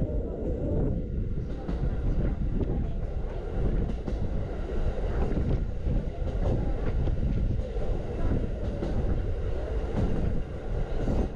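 Norokko sightseeing train running along the line, heard from inside a passenger car: a continuous rumble of wheels on the rails with scattered clicks of rail joints.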